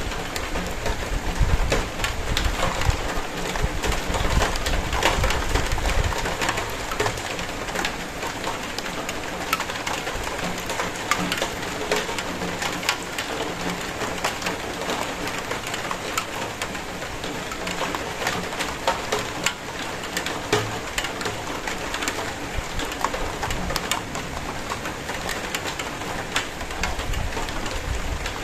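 Steady rain, with many separate drops ticking sharply on a hard surface over the even hiss of the downpour. A low rumble underlies the first several seconds.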